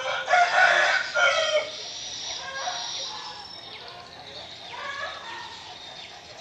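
A loud bird call lasting about a second and a half near the start, followed by fainter scattered calls.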